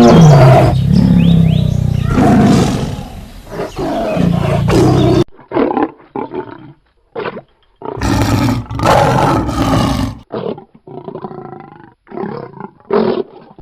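A big cat roaring: one long continuous roar for about the first five seconds, which stops abruptly, then a run of shorter separate roars with silent gaps between them.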